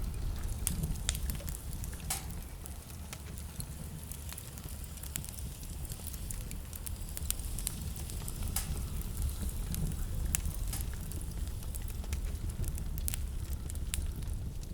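Wood fire in a fireplace crackling, with scattered sharp pops, over a steady low rumble of blizzard wind.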